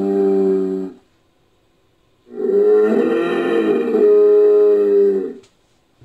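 Made-up creature call sound effect for a giant rhinoceros beetle monster, built from a woolly rhino sound. Two pitched calls: a short one that ends about a second in, then a longer one of about three seconds.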